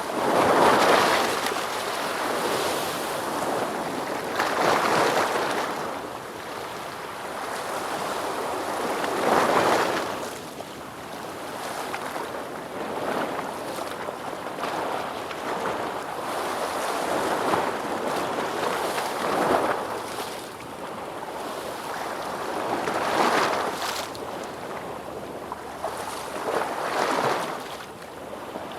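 Ocean waves breaking and washing in, a surge of surf every few seconds over a steady rush of water.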